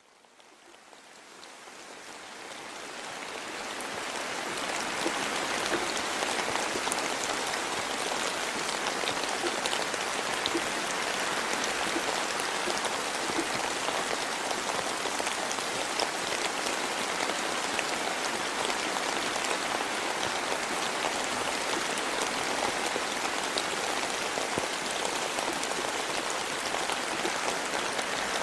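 Steady rain falling in a forest, a dense hiss of drops with many separate drop ticks. It fades in from silence over the first five seconds.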